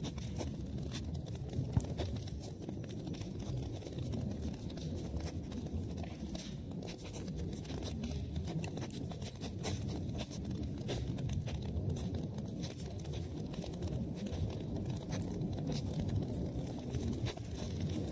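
Wood fire burning in a fireplace: a steady low rumble of flames with many small crackles and pops.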